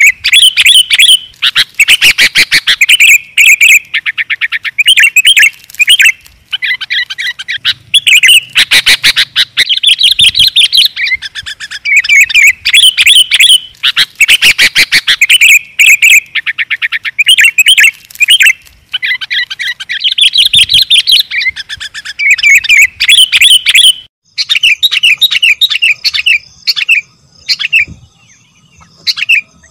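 Sooty-headed bulbul (kutilang) calling: loud, repeated bubbly whistled phrases in quick succession, broken several times by rapid chattering trills. After about 24 s the phrases come more sparsely.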